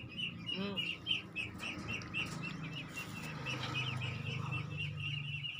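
Backyard birds: a fast, even run of high chirps, about six a second, with one lower call about half a second in and a low steady drone in the second half.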